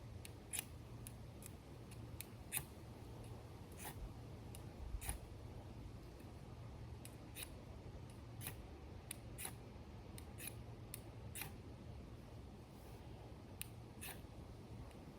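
Campfire crackling: irregular sharp snaps and pops, one or two a second, over a steady low hum.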